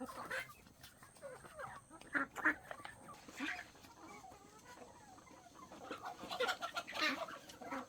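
Farmyard poultry clucking and calling in short scattered bursts, busiest about two seconds in and again near the end.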